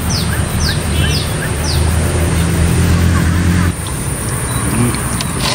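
A bird repeats a short, falling, high call about twice a second for the first two seconds, over a steady low rumble. The rumble cuts off abruptly a little past halfway.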